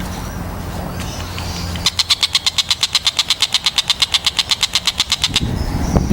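Tengkek buto kingfisher giving its rapid rattling call, a fast even trill of about ten sharp notes a second that starts about two seconds in and stops shortly before the end. A steady low hum lies under it, and a louder low rumble comes up near the end.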